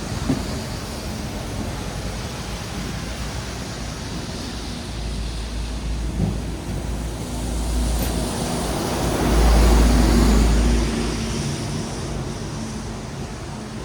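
Traffic on a wet city road: a steady hiss of tyres on wet asphalt. A vehicle passes close, with a deep rumble that swells to its loudest about ten seconds in and then fades.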